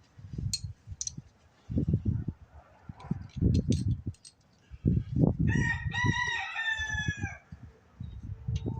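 A rooster crows once, a single drawn-out call of about two seconds starting about five seconds in, its pitch dropping at the end. It sits among low knocks and rumbling handling noise from work on the snowblower's carburetor, with a few sharp clicks.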